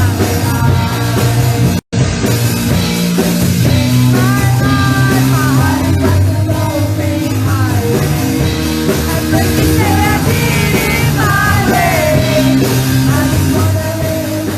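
A live rock band playing with a singer: sung lines over bass and drums. The sound cuts out for an instant about two seconds in.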